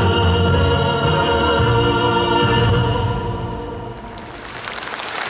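Choir singing with accompaniment, holding a song's closing chord, which dies away about three and a half seconds in; applause starts to rise near the end.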